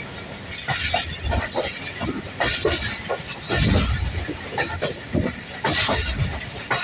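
Passenger train running along the track: a steady rumble and hiss with irregular sharp knocks as the wheels cross rail joints and points.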